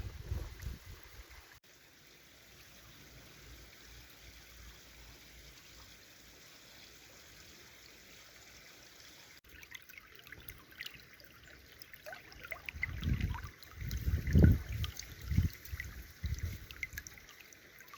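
Small forest stream trickling. Faint at first, then from about halfway through it has scattered splashy ticks, with a few low rumbles on the microphone about two-thirds of the way in.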